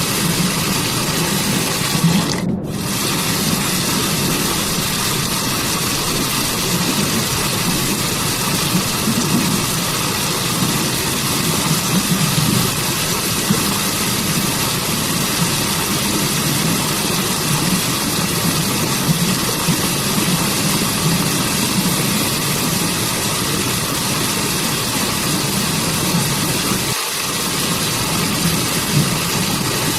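Waterfall and stream water rushing in a steady, even wash of noise with a deep low rumble. The upper hiss drops out for a moment about two and a half seconds in.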